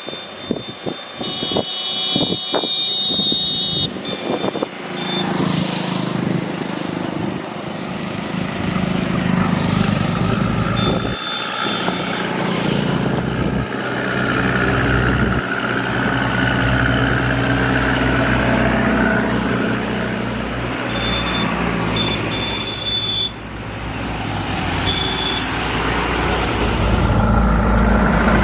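Heavy diesel vehicle engine running under varying load, with knocks in the first few seconds and short high-pitched beeping tones at several points.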